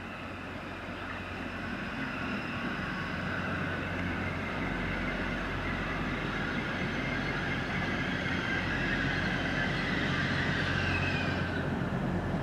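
Diesel multiple unit running through the station, with a steady low engine hum that grows louder. High-pitched squealing tones ride over it and stop about eleven and a half seconds in.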